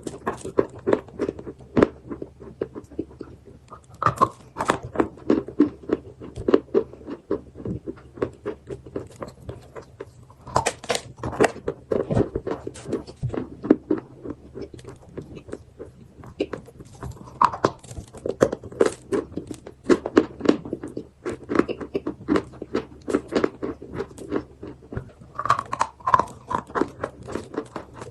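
Close-miked chewing and crunching of eating chalk: a dense, irregular run of crisp crackles as pieces are bitten and ground between the teeth.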